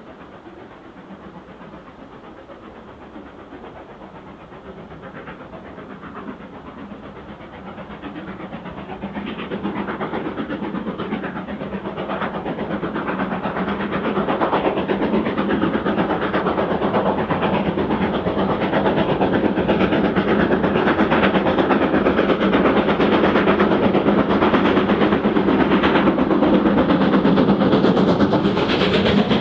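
Steam train approaching along the line. Its running sound grows steadily louder over the first half and then stays loud.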